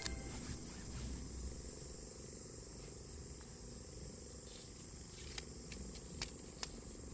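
Faint outdoor ambience: a steady low rumble under a high hiss, with a few light clicks about four and a half to six and a half seconds in.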